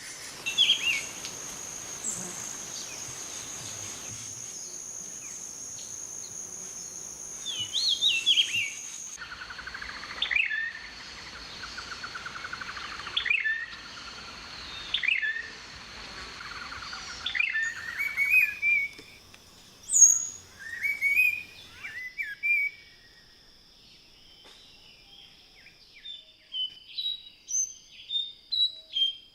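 Wild tropical birds calling and chirping over a steady, high-pitched insect drone; the background changes twice, and near the end a bird gives a quick run of short repeated calls.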